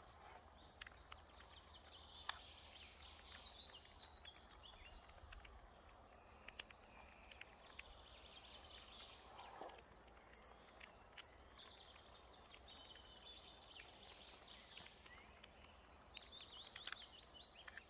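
Faint birdsong in woodland: several songbirds chirping and trilling on and off, with a few soft clicks now and then.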